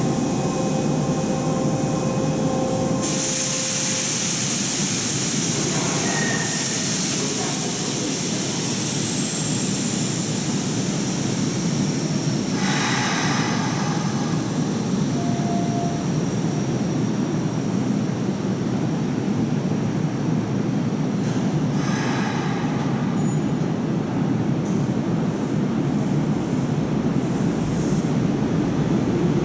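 Hanshin 8000-series electric train running on the track, a steady noise of wheels and motors. High hissing, squealing sounds come in three stretches: one lasting several seconds near the start, then two briefer ones near the middle and about three quarters of the way through.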